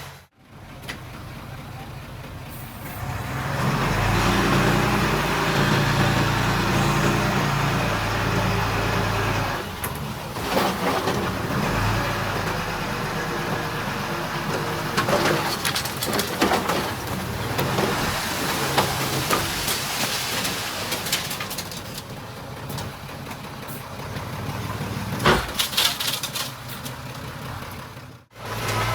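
Diesel engine of heavy earthmoving machinery running, growing louder about three and a half seconds in, with scattered clanks and knocks.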